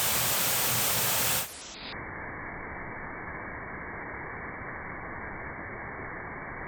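A waterfall's steady rushing noise, loud and bright for about the first second and a half, then suddenly quieter and duller for the rest.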